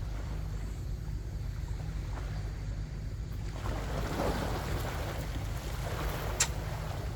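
Wind rumbling on the microphone by the sea, with a wash of water swelling for a second or so about halfway through and a single sharp click near the end.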